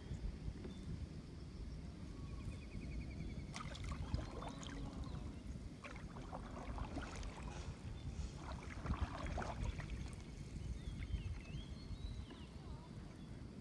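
Kayak paddles dipping and splashing in calm water, a few strokes spread through the stretch, over a steady low rumble. A few faint high chirps come and go.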